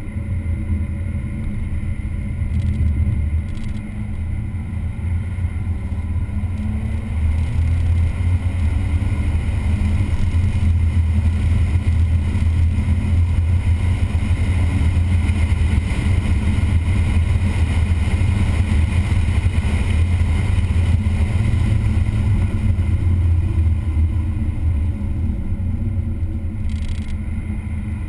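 Engine of a vehicle lapping a race track, heard onboard with a heavy low drone and wind noise. The revs rise and fall through gear changes and corners.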